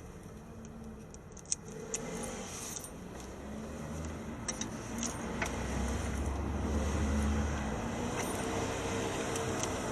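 Street traffic: a motor vehicle passes close, its low rumble swelling to the loudest point about six to eight seconds in. A few light metallic clinks and clicks sound in the first three seconds.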